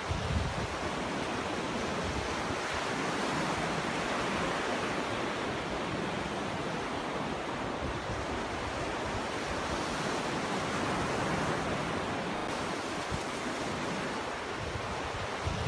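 Ocean surf breaking and washing up a beach: a steady rushing hiss that swells and eases slowly, with short low rumbles about half a second in and near the end.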